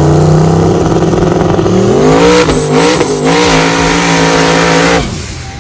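Car engine revving: it runs steadily, climbs in pitch about two seconds in and is held at high revs, then drops off abruptly about five seconds in.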